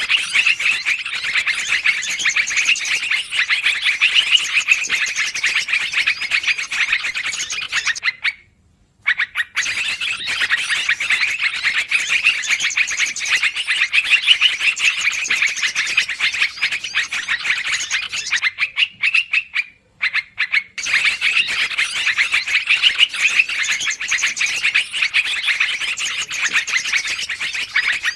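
Bird-lure recording of yellow-vented bulbuls (trucukan) chattering noisily and without pause, in bouts about ten seconds long with two brief breaks, about eight and twenty seconds in.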